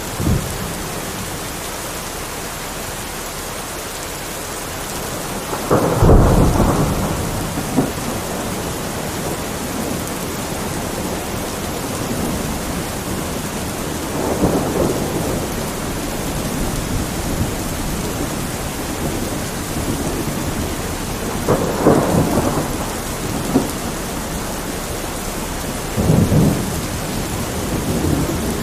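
Heavy rain falling steadily, with thunder rumbling through it four times: the loudest roll about six seconds in, then weaker ones around fifteen, twenty-two and twenty-six seconds.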